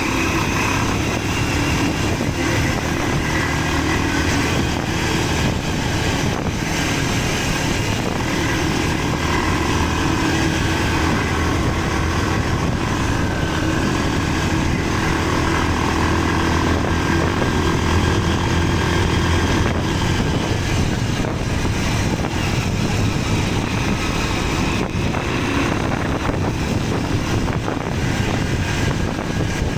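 Motorcycle engine running steadily while riding, under a dense, even rush of wind and road noise.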